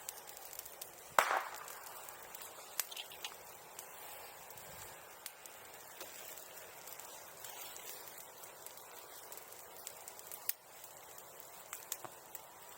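Bonfire crackling, with one loud sharp pop about a second in and a few smaller snaps scattered through.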